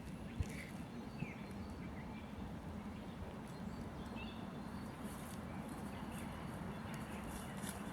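Birds calling in a spring forest: short chirps and quick slides, sparse and fairly faint, over a steady low background hum. Two soft thumps come about half a second and a second in.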